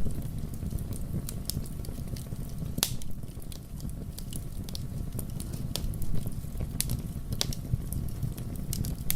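Fire burning in a fireplace: a steady low rumble of flames with sharp crackles and pops at irregular intervals, a few of them louder than the rest.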